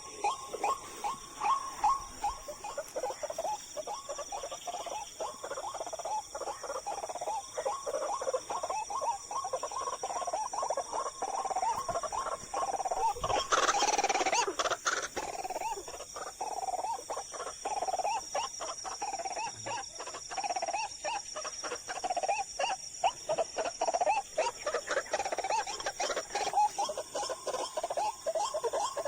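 Night marsh chorus: fast, continuous repeated animal calls over a steady high insect drone, with a brief louder rustling noise about thirteen seconds in.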